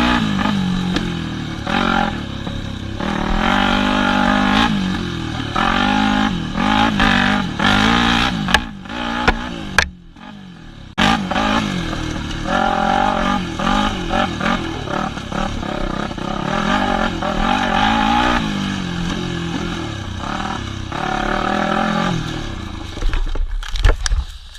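Yamaha WR250F four-stroke single-cylinder dirt bike engine revving up and down again and again as the throttle opens and closes on the trail. It goes quiet briefly about ten seconds in, and a few sharp knocks and clatters come around nine seconds in and again near the end.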